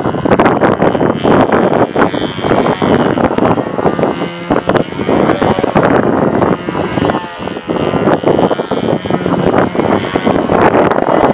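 Heavy wind buffeting the microphone, with the thin whine of a control-line model airplane's engine running under it, rising and falling in pitch as the plane circles.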